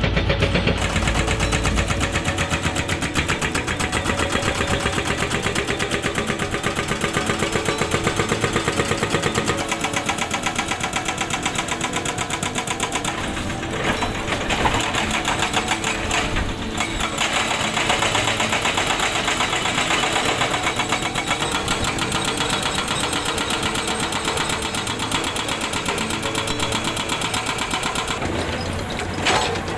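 Hydraulic rock breaker on a Komatsu excavator hammering rock, a rapid, steady train of blows, with the excavator's engine running under it.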